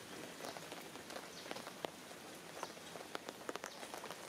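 Steady rain: an even hiss with scattered, irregular ticks of single drops landing.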